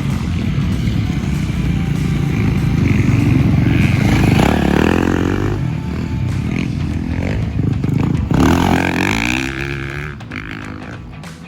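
Motocross bike engine revving hard and easing off through the gears, with the pitch climbing to loud peaks about four seconds in and again about eight seconds in, then falling away near the end.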